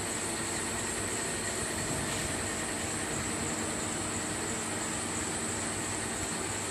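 CNC machine running a program, a steady machine noise with a constant high-pitched whine.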